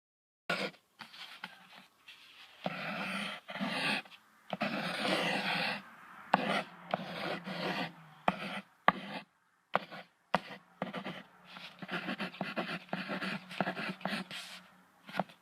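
A moose vocalizing: a run of hoarse, breathy calls and grunts broken by short pauses, starting about half a second in.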